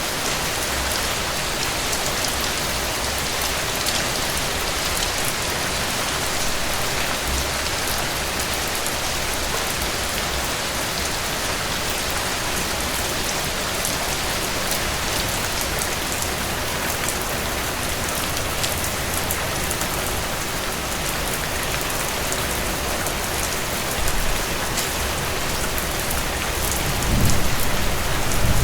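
Heavy rain falling on a cabin porch and roof: a steady, dense hiss with fine drop ticks. A low rumble swells up near the end.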